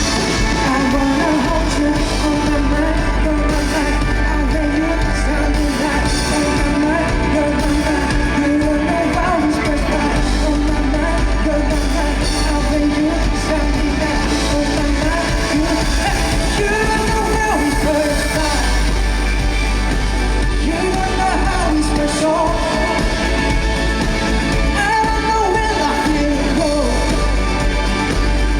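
Live rock band playing a song with a lead vocal singing over it, loud and steady with a heavy bass end.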